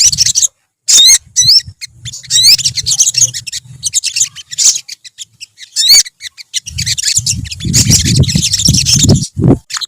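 A group of olive-backed sunbirds singing: clusters of quick, high chirps and twitters with short rising whistled sweeps, broken by brief gaps. From about seven seconds in, a low rumbling noise runs under the song for two to three seconds.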